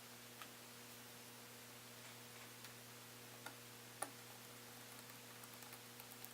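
Near silence over a steady low electrical hum, broken by a few faint clicks and taps of small tools and laptop parts being handled during reassembly; the sharpest click comes about four seconds in, with a quick run of light ticks near the end.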